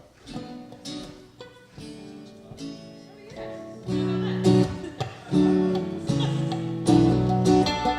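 Acoustic guitar opening a song: quiet picked notes at first, then much louder full strummed chords from about four seconds in.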